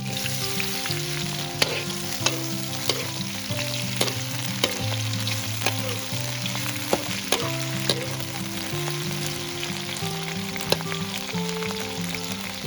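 Food frying in a hot pan, sizzling steadily, with a utensil stirring it and clicking against the pan several times. Background music with held notes plays underneath.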